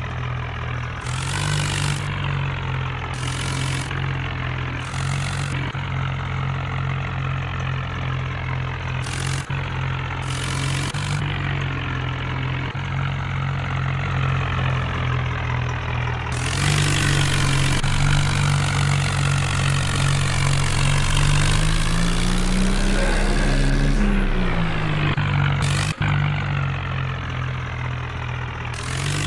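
Vehicle engine sound idling steadily, with short flares of hiss every second or two early on and a louder stretch in the second half where the pitch rises and falls once like a rev.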